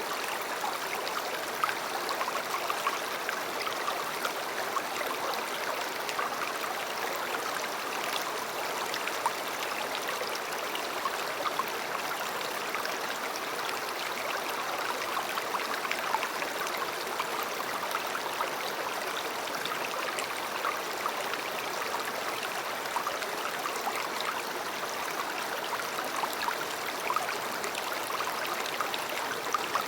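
A river flowing steadily, with a dense babble of many small splashes over an even rush of water.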